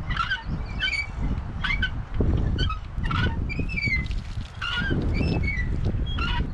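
Hand water pump being worked in repeated strokes, squeaking shrilly again and again, over a rush of low noise that surges with each stroke.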